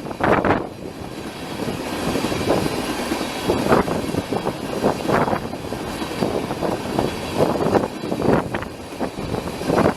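Gusty wind buffeting the microphone in uneven surges over a steady low rumble.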